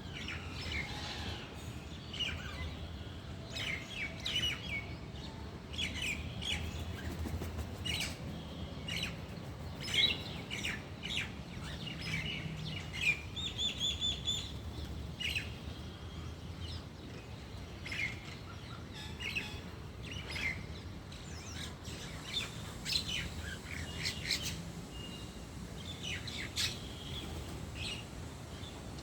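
Small birds chirping, with many short, quick calls throughout and a couple of brief held whistling notes, over a steady low hum.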